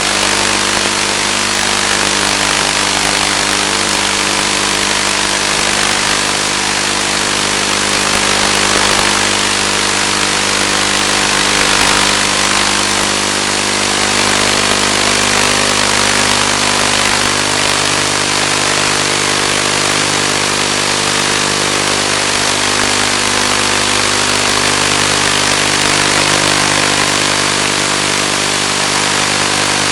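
Electric motor and propeller of a Finwing Penguin FPV plane running at a steady speed, a constant drone with many even overtones under a steady hiss.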